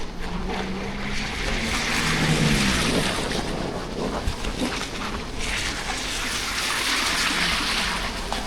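Traffic passing on a rain-wet street: tyres hissing on wet asphalt, swelling twice, with an engine's hum dropping in pitch as the first vehicle goes by.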